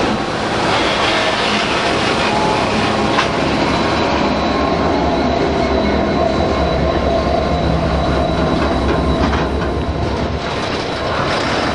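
Diesel-electric freight locomotives running past at close range with a heavy engine rumble, then a line of loaded freight wagons rolling by, wheels clattering on the rails. A thin, steady high whine runs throughout.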